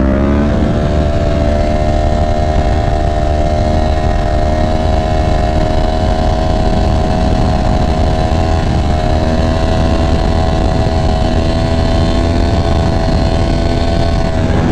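Motorcycle engine running at a steady cruise: its note shifts right at the start, then holds nearly level throughout.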